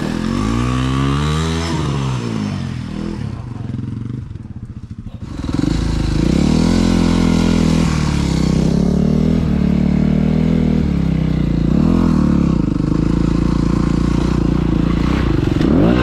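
Dirt bike engine under throttle, its pitch rising and falling as it is ridden. It drops back quieter about four seconds in, then picks up strongly again and keeps rising and falling with the throttle.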